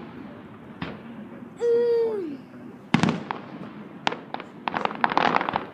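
Aerial fireworks bursting: a sharp bang about a second in, a loud bang about three seconds in and another a second later, then a quick run of crackling. A held tone with a falling end sounds in between.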